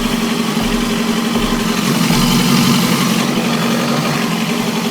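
Suzuki GSX750F Katana's inline-four engine idling steadily, swelling slightly about two to three seconds in.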